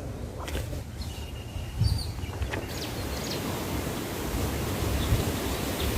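Outdoor background noise with a few short, high bird chirps over a steady low rumble; a hiss grows louder a little before halfway.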